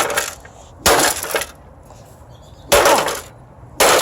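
Four hard crashing blows smashing the plastic and metal parts of a washing machine control panel, each with a short rattling break-up of pieces. They come unevenly, with quiet gaps between them.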